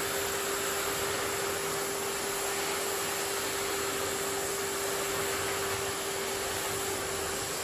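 Miele vacuum cleaner running steadily: an even rushing noise with a steady hum tone under it.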